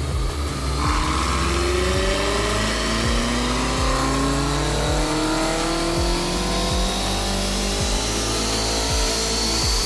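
Car engine accelerating, its pitch rising steadily over several seconds, with background music keeping a steady beat about once a second.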